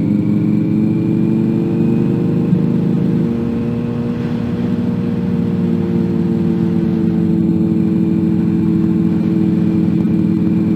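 Car engine heard from inside the cabin while driving: a steady hum whose pitch drifts slowly, easing off slightly about four seconds in.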